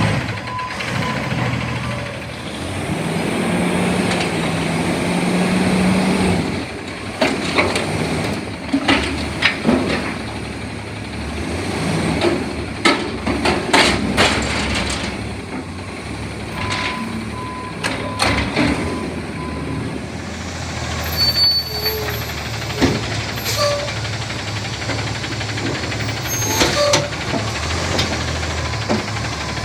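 CNG front-loader garbage truck working. Its engine drones and rises for a few seconds early on, then metal clanks and bangs come in a cluster through the middle. The reversing alarm beeps near the start and again about two-thirds of the way through.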